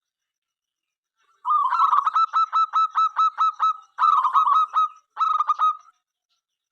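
Zebra dove cooing: a staccato run of quick, evenly repeated notes starting about a second and a half in, followed by two shorter bursts, ending about six seconds in.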